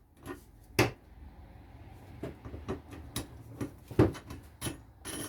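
A series of separate sharp knocks and clicks, the loudest about four seconds in: parts of a Benchdogs workbench fence system being handled and fitted into place.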